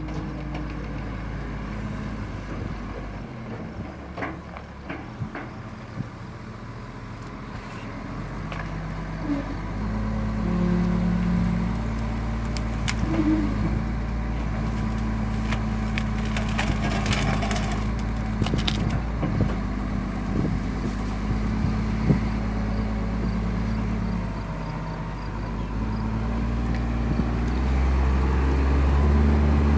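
Large wheel loader's diesel engine running under load, picking up in revs about ten seconds in and again near the end, as it pushes storm-felled trees with a grapple bucket. Sharp cracks and snaps of wood come through, most of them around the middle.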